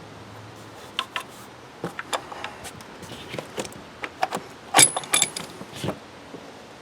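Metal hand tools clicking and clinking in irregular, scattered knocks, with a louder cluster of metallic rattles about five seconds in.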